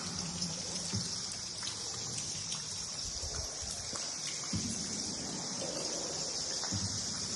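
Cave ambience: a steady high-pitched chatter of a bat colony with water trickling and dripping, and a few dull low knocks.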